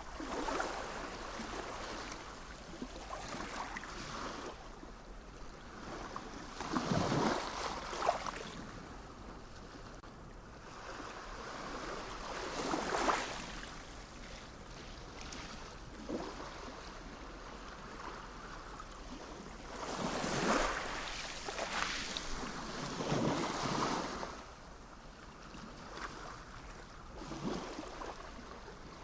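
Sea waves breaking and washing up the shore, each one swelling and then fading, a few seconds apart, with louder breakers now and then.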